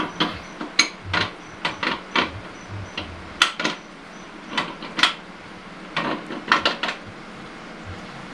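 Metal automatic-transmission parts being handled on a workbench: a string of irregular sharp clinks and clanks of steel against steel.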